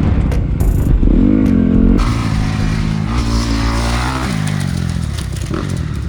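Dirt bike engine revving, its pitch rising and falling as the rider works the throttle and shifts through gears. The sound changes abruptly about two seconds in and again near the two-thirds mark.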